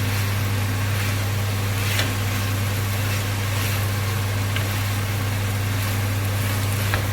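A steady low hum, under the steady hiss of chicken strips, onions and bell peppers frying in oil in a pan, with a few faint ticks.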